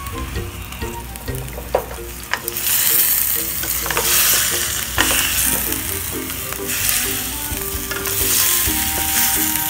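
Chicken feet and soy sauce sizzling in a hot stainless steel pot while they are stirred with a wooden spatula, with sharp knocks of the spatula against the pot. The sizzle grows louder about two and a half seconds in, as the sauce hits the hot metal.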